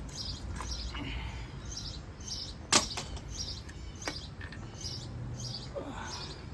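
A bird chirping steadily, about two short chirps a second, over a low hum. A single sharp knock a little under halfway through is the loudest sound, and a lighter knock follows about a second later.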